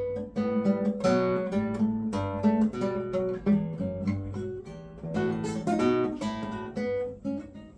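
Acoustic guitar played fingerstyle without a pick: a flowing run of plucked notes and chords, several a second.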